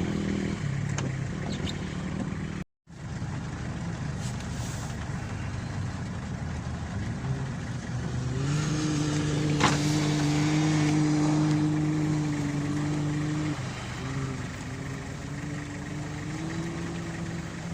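An off-road rally vehicle's engine running under load. Its note climbs and holds steady for several seconds, dips, then rises again near the end. The sound drops out briefly about three seconds in.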